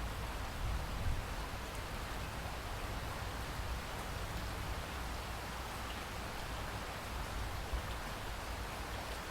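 Steady rain falling in a rainforest, an even hiss of drops with a low rumble underneath.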